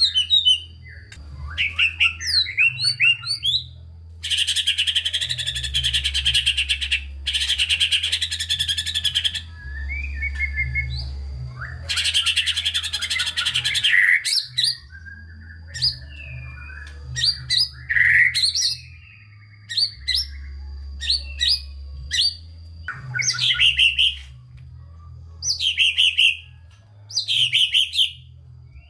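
White-rumped shama (murai batu) in full song, mixing whistled notes, chatter and three long, rapid rattling trills in the first half, then shorter separate phrases with pauses between them. A faint steady high tone and a low hum run underneath.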